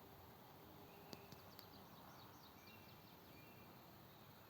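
Quiet open-air ambience with a faint distant bird singing a quick run of short, downward-sliding high notes starting about a second in and lasting about two seconds, with a thin steady whistle alongside.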